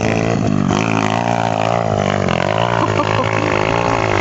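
Stomp Demon pit bike's single-cylinder engine held at high revs under load on a hill climb, a steady buzzing note that wavers in pitch, sags a little past the middle and picks up again.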